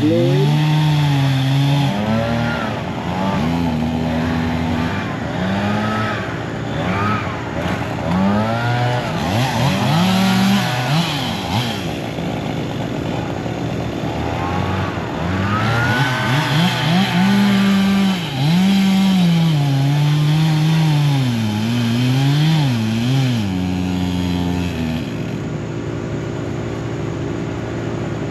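Engine of tree-removal equipment repeatedly revving up and falling back, its pitch rising and dropping every second or two. Near the end it settles into a steadier, lower running sound.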